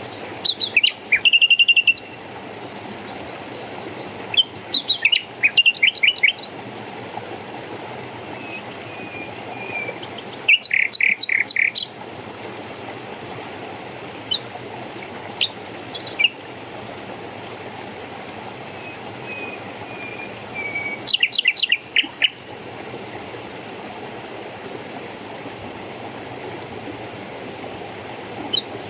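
A songbird singing short trilled phrases every few seconds, with softer whistled notes between them, over the steady rush of a stream.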